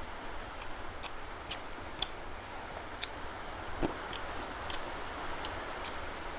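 Eating sounds: chewing with scattered short, sharp mouth clicks and smacks over a steady background hiss.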